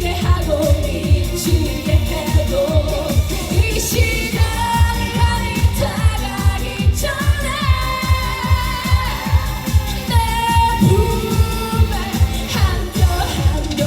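Live Korean pop dance song played over a PA system: a female lead vocal sings over an amplified band or backing track with a steady kick-drum beat.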